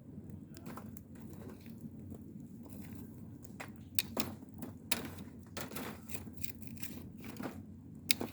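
A dog chewing and crunching dry food, irregular sharp crunches that come faster from about halfway through.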